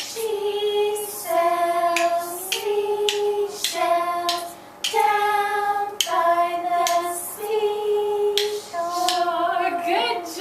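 A woman's voice, with children's voices, singing a short tune in held notes without clear words, with rhythm sticks tapping along at the start of many of the notes.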